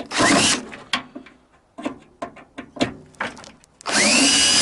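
A power drill driving out microwave case screws: a short spin at the start, then a scatter of metal clicks and taps, then the drill runs again near the end with a whine that rises and then holds steady.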